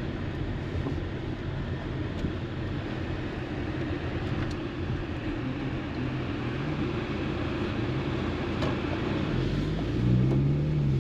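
Car or truck on the move: the engine runs under steady road noise, and its low hum grows louder near the end.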